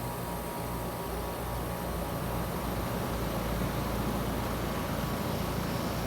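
Heat pump outdoor unit running steadily in cooling mode: a low compressor hum under the steady rushing of the condenser fan.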